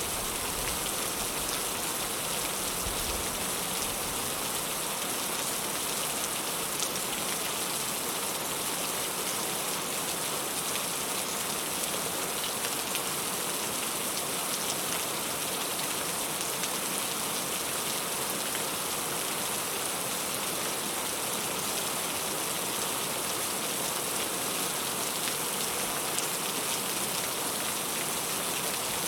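Heavy rain falling steadily, a dense even hiss of rain with scattered sharper drop impacts.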